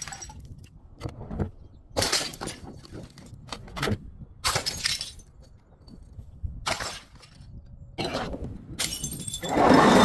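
Glass breaking and crunching in a series of separate bursts, about six of them. The last and loudest, near the end, is a longer shattering crunch.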